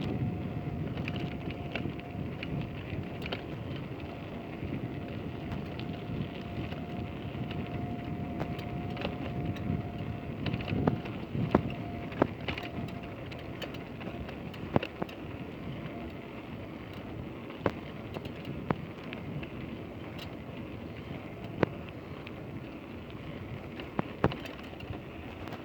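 Wind rushing over the microphone with road noise while riding through town, with scattered sharp clicks and a thin steady whine through the first half.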